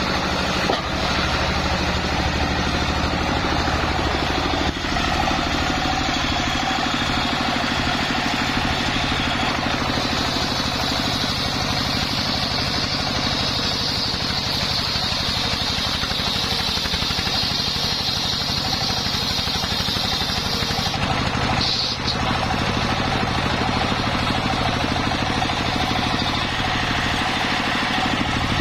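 Homemade engine-driven circular sawmill running steadily while sawing coconut-palm wood, with a higher whine added for about ten seconds through the middle and a few brief knocks.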